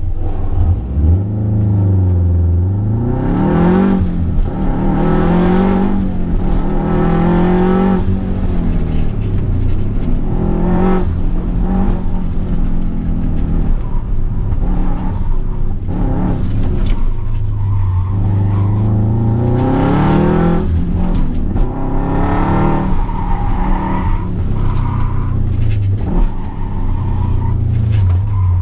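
Turbocharged 2.5-litre flat-four engine of a modified 2005 Subaru Forester XT, heard from inside the cabin. It revs up and drops back over and over as the car is driven hard through an autocross course.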